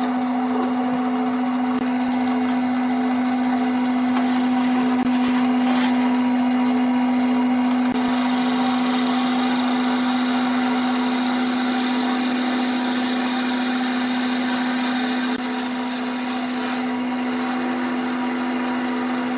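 Wood lathe running steadily with a constant motor hum over a steady whirring noise, easing slightly in level about fifteen seconds in.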